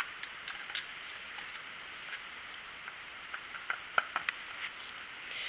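Scattered light clicks and taps from handling the oil fill opening of a pressure washer's engine and fitting a small plastic funnel, over a faint steady hiss.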